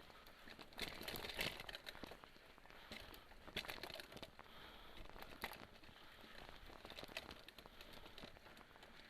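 Mountain bike rolling over a dirt forest trail: irregular crunching and rattling from the tyres and bike, in a few bursts, the loudest about a second in.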